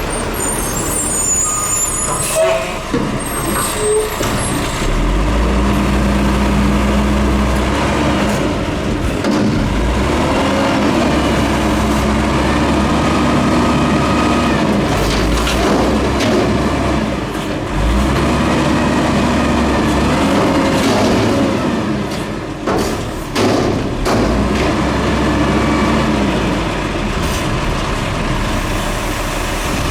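Peterbilt 310 garbage truck's diesel engine running and revving up and down several times, as it does to drive the hydraulics of its Heil DuraPack front-load body, with a few sharp knocks about three-quarters of the way in.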